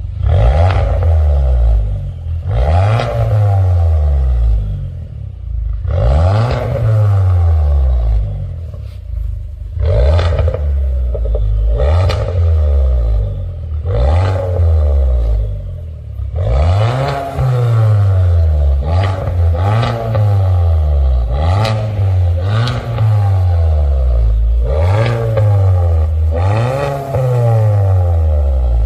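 Kia K5 1.6T four-cylinder turbo engine through an aftermarket Code R1 variable-valve exhaust, revved again and again, the exhaust note rising and falling about a dozen times, with quicker, shorter blips in the second half.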